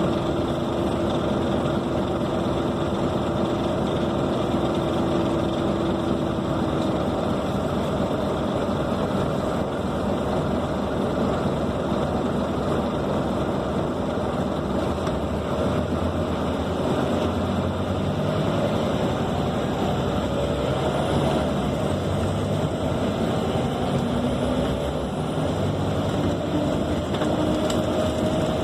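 Scania K270 city bus engine and road noise heard from inside the cabin of a Caio Millennium II bus, running steadily, with the engine note rising near the end.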